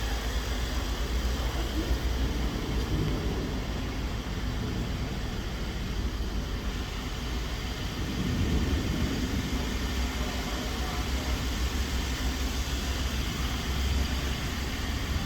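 2009 BMW 750Li's 4.4-litre twin-turbo V8 idling steadily, a 15,000-mile used engine being run to show it runs.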